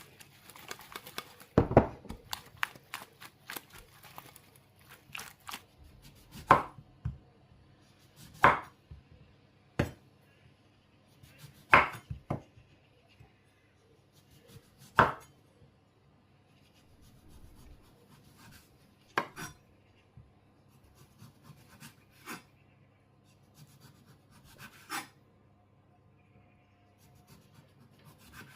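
Kitchen knife cutting through food onto a cutting board: single sharp knocks, irregularly spaced, about ten in all.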